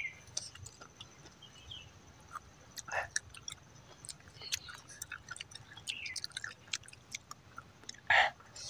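A person chewing spicy cashew-apple (jambu mete) rujak close to the microphone: scattered soft wet mouth clicks and smacks. A short, louder sound comes near the end.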